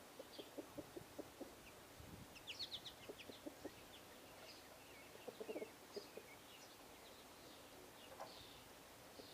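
Faint bird calls: several runs of short, low clucking notes at about three or four a second, mixed with scattered high, thin chirps.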